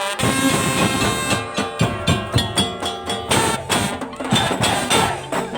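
Madurese musik daul (tongtong) ensemble playing: quick, regular beats from wooden tongtong slit drums and drums under a held, sustained melody line.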